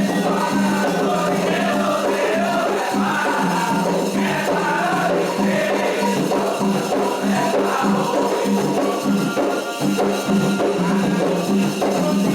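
Candomblé ritual music: hand drums keeping a steady repeating beat, with rattling shaker-like percussion and voices singing over it.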